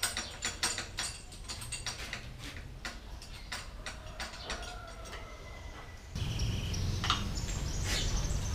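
Birds chirping in the background, with scattered light clicks early on; about six seconds in, a louder low background noise starts abruptly.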